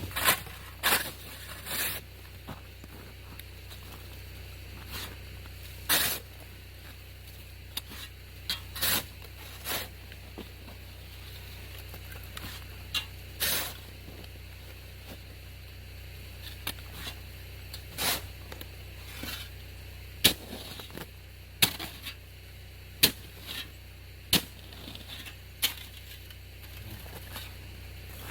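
Snow shovel scraping and chopping at crusted snow hardened by rain, in short sharp strokes at irregular intervals, about one every second or two.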